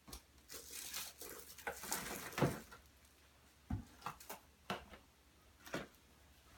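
Firework packages being handled: a couple of seconds of rustling with a sharp knock at its end, then a few short separate knocks as items are set down.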